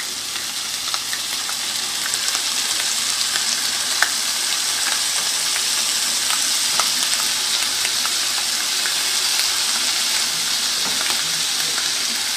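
Halved morel mushrooms frying in butter in a nonstick pan: a steady sizzle with scattered crackles and one sharper pop about four seconds in, growing a little louder over the first few seconds.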